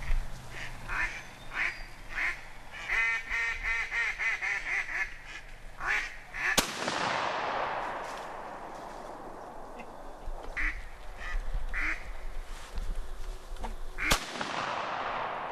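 Two shotgun shots about seven and a half seconds apart, each with a long echo rolling away. Before the first shot comes a quick series of short, nasal, duck-like calls.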